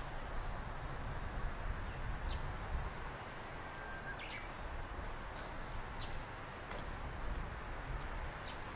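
Outdoor ambience: a bird gives short, high chirps about every two seconds over a steady low background rumble.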